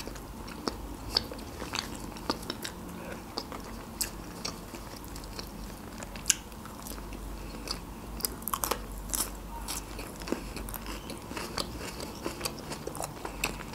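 Close-miked chewing of Adjarian khachapuri, a cheese-filled bread, with many short, sharp mouth clicks scattered unevenly through it.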